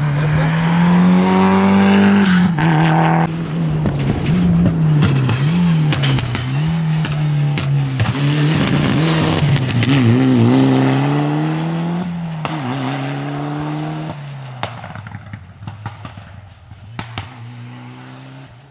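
Rally car engine revving hard, its pitch rising and dropping as the throttle is worked and gears change, with tyre squeal and sharp cracks as it drifts past. The engine then holds steady and fades away over the last few seconds.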